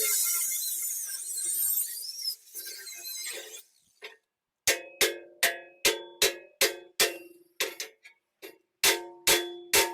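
A rushing, grinding noise fades out over the first few seconds. Then a hammer strikes a steel part about twice a second, each blow ringing briefly.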